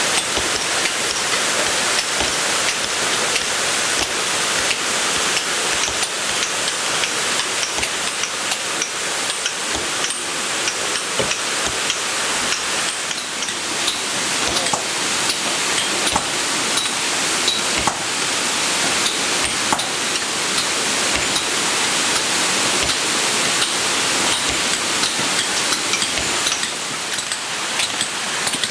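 Waterfall: a steady rush of falling water, with a constant patter of small splashes through it.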